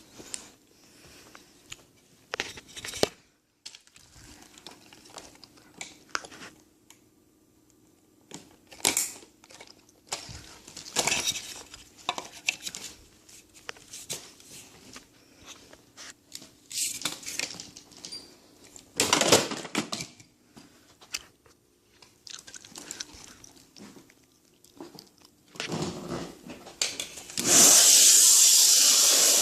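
Scattered knocks, clicks and rustles of things being handled, then near the end a Kenmore vacuum cleaner switches on suddenly and runs with a loud, steady rushing hiss.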